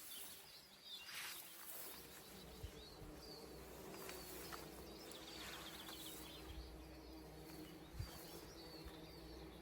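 Faint steady buzzing of many bumblebees foraging in a bank of vegetation, with small birds chirping now and then.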